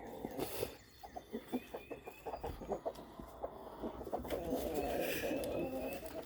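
Chickens clucking and calling, with many short, irregular clucks and a few higher chirps about two-thirds of the way through.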